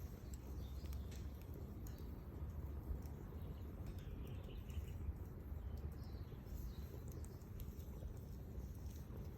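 Wood bonfire burning: a steady low rumble with scattered faint crackles and pops.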